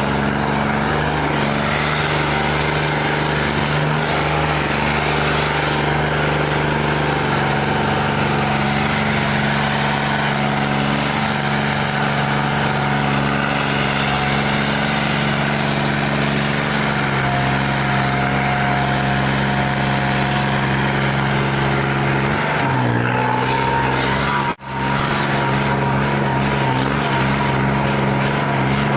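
Tractor diesel engine running steadily, its note shifting slightly a couple of times, with a momentary dropout about 25 seconds in.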